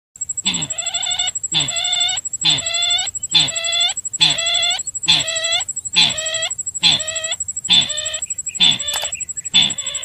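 Repeated call of the sintar bird played as a lure: about eleven short calls, roughly one a second, each with a falling low note under a higher ringing part, over a faint steady high whine.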